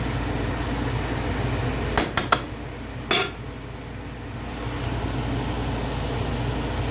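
Steady mechanical hum in a small space, with three quick clicks about two seconds in and a louder clank of cookware a second later.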